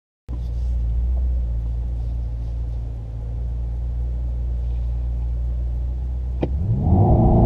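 Mercedes-AMG E 63 S twin-turbo V8 idling with a steady low rumble, heard from inside the cabin. Near the end, after a click, the engine revs up and grows louder as the car pulls away from a standstill.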